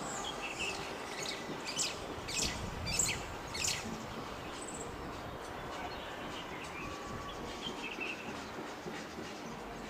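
Small birds chirping over a steady background hiss of outdoor air. Four sharp, high chirps come in quick succession about two to four seconds in, louder than the rest.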